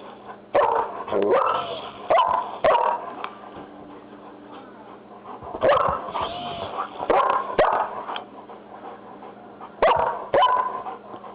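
German shepherd barking in three bursts of two to four barks, with gaps of a couple of seconds between them.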